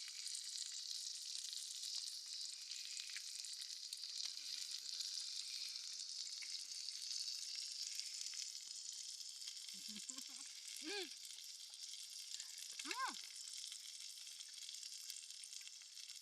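Thick beef searing on a grill with a steady sizzle. About two-thirds of the way in, two short calls that rise and fall in pitch sound about two seconds apart.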